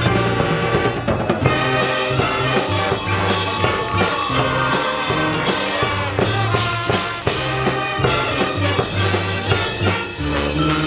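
Marching band playing: brass and woodwinds over a drumline, with a bass line that moves in short held notes and frequent drum strokes. A new held low chord comes in near the end.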